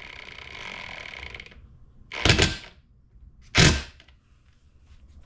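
Metal transmission parts being handled and fitted into an ATV engine case half: a rapid run of fine clicks for about a second and a half, then two loud knocks a little over a second apart.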